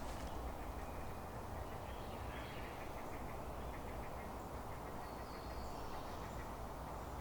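Ducks quacking faintly now and then over a steady low rush.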